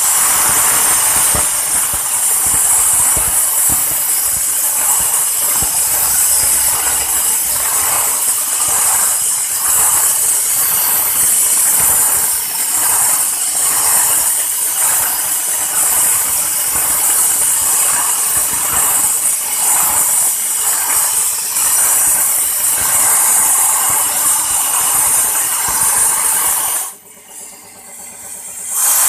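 Loud, steady hiss of air or gas escaping under pressure. It stops about 27 seconds in and starts again near the end.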